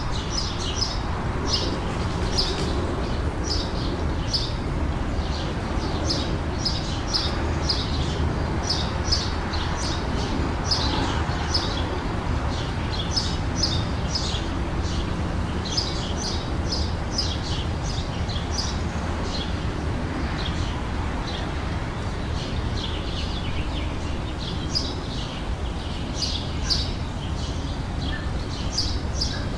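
Songbirds chirping over and over in short, high notes that come in quick clusters, over a steady low background rumble.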